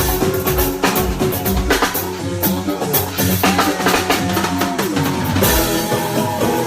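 Live band playing music: a drum kit with kick, snare and rimshot hits keeping a steady beat, over bass and sustained instrument notes.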